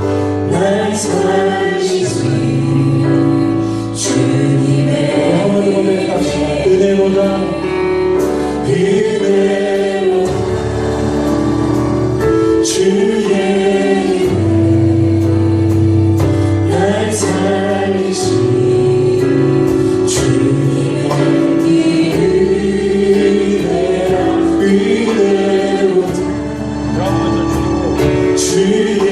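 A choir singing a gospel praise song with a band: steady bass and drums, with cymbal crashes every few seconds.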